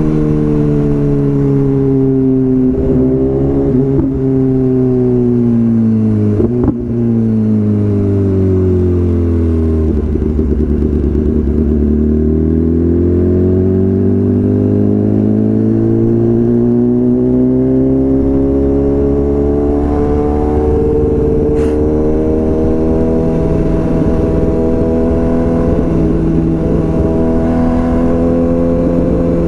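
BMW S1000RR inline-four engine through a full Akrapovič exhaust, running under way. Its pitch falls slowly over about ten seconds, then climbs again and holds steady, with a short click about seven seconds in.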